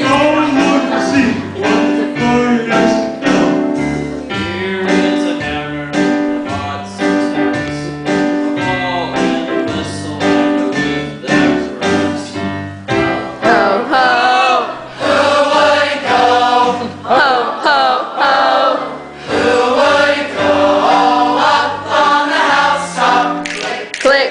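Choir singing with piano accompaniment; the voices become fuller and more prominent a little past halfway.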